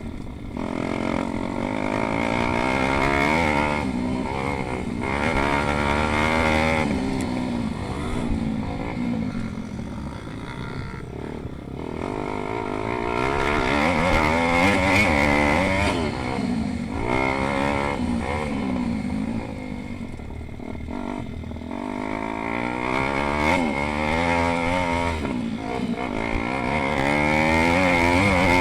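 Several pit bikes racing, their small engines revving up and down with overlapping rising and falling pitches as they accelerate, shift and brake. The sound swells as bikes come close, around the middle and again near the end.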